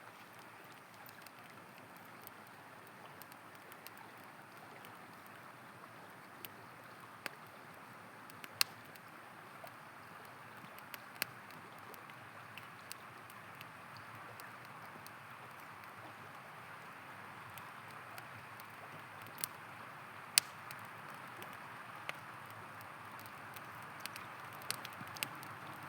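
Steady rushing of a river, with sharp pops and crackles of a campfire scattered through it; the two loudest pops come about a third of the way in and a little past the middle.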